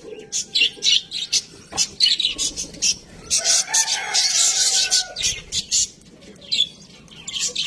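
Budgerigars chirping in a quick string of short high notes. A denser warbling chatter comes in the middle, and the calls thin out briefly near the end.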